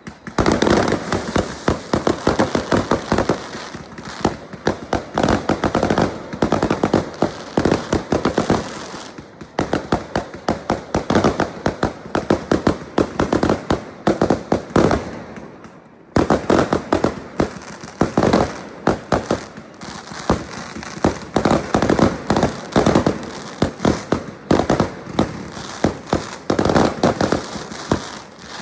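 Fireworks going off in a dense barrage of rapid bangs, many a second, in runs of several seconds with brief lulls between.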